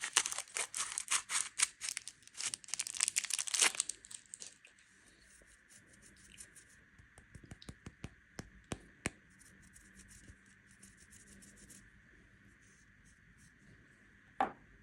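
Plastic candy wrapper crinkling and tearing open in dense crackles for about four seconds, then only sparse light ticks and crackles, with one sharper click near the end.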